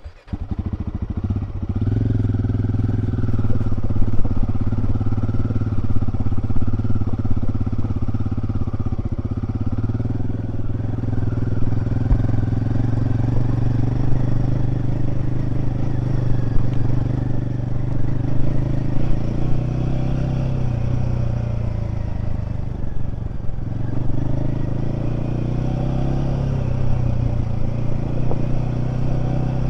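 Royal Enfield Himalayan 450's single-cylinder engine cutting in suddenly, then running steadily, with its pitch rising and falling several times in the second half as the motorcycle is ridden.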